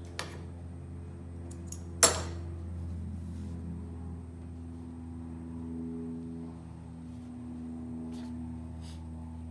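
Steady low hum with a few held tones, broken by one sharp click about two seconds in and a few faint ticks near the end.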